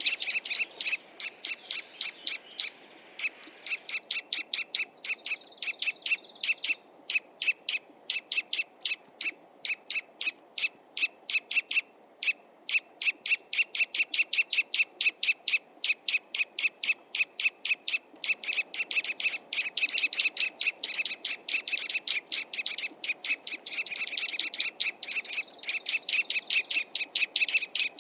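Small songbird calling, a long run of short sharp notes at about four a second, with a few higher whistled chirps in the first few seconds.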